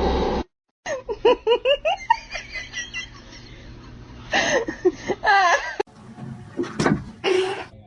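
A person laughing in quick repeated bursts, with more laughter further on.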